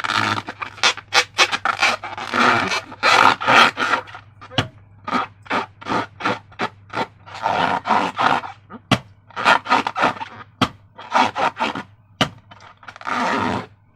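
Slime being squeezed and worked by hand: a busy run of wet squelches and sharp pops and clicks, coming in short irregular bursts.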